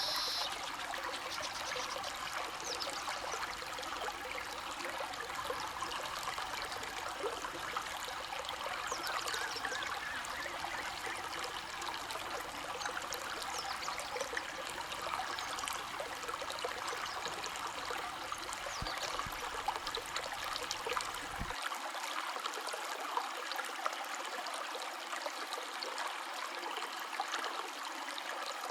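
A stream of water flowing steadily, with a continual trickle of small splashes. About two-thirds of the way through, the low rumble beneath it drops out suddenly.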